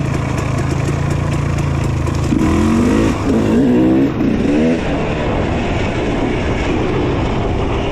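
Dirt bike engine running at low speed, then revved up and down several times between about two and five seconds in, before settling back to a steadier run.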